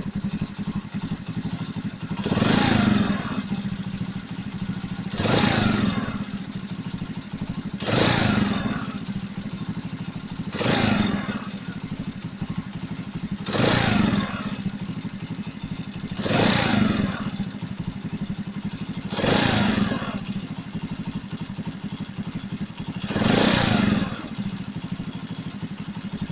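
Alpha moped's single-cylinder four-stroke engine idling and briefly revved eight times, about every three seconds. It carries a knock that appears once the engine is warm, which the owner traced to the camshaft bearings working loose in their seats as the cylinder head heats up.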